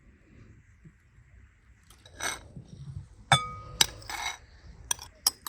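Glass dishes and utensils clinking during food preparation. It starts with a couple of short scraping, rustling sounds, then several sharp clinks in the second half, the first of which rings briefly like struck glass.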